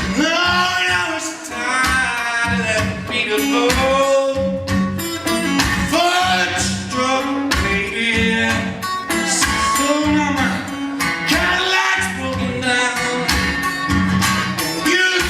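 Live country-blues song: plucked guitar keeping a steady beat under a male voice singing.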